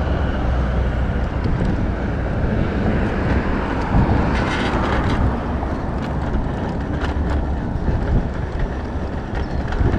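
Wind buffeting the microphone with road and tyre rumble while riding a rented electric bike, with a few brief rattles from bumps.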